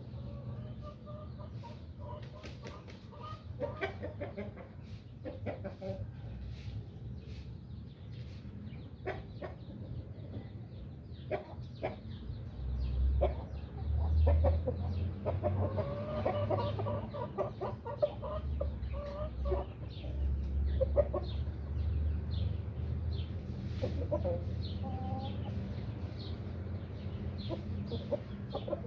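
Chickens clucking, many short calls scattered through, with a low rumble underneath that swells in the middle stretch.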